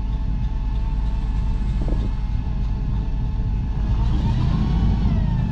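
Rollback truck's 366 V8 engine running steadily, revving up about four seconds in with a rising whine that then levels off.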